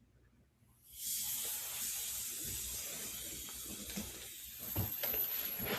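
Blood pressure cuff deflating through the sphygmomanometer's release valve after the reading: a steady hiss of escaping air that starts about a second in and stops near the end, with a few low thuds of handling.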